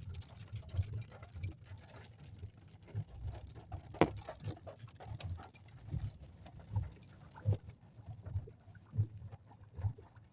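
Footsteps thudding at walking pace, with handling noise from the phone and one sharp click about four seconds in.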